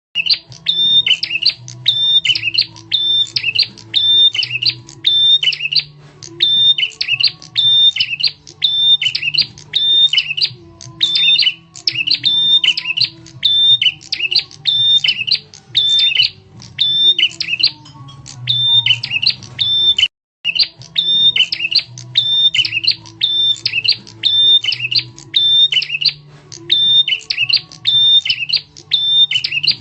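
Prenjak tamu bird lure call: a loud, sharp chirping call repeated about twice a second without pause, with a brief cut about twenty seconds in.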